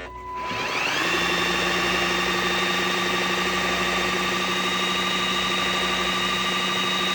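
Riccar R70 wet-dry floor washer in its self-cleaning cycle: after a short tone, its motor spins up about a second in and then runs steadily with a whine.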